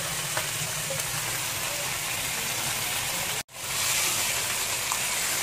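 Chicken pieces frying in hot oil in a wok, a steady sizzle. It cuts out for an instant about three and a half seconds in, then resumes a little brighter.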